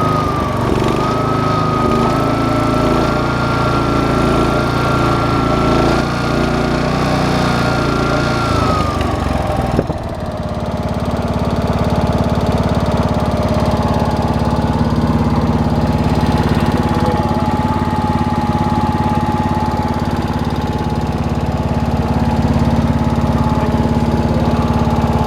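Robin EY44-2B general-purpose gasoline engine running on test, with a thin whine over the engine note. About ten seconds in the whine fades, the engine speed drops, and it settles into a lower, steady running.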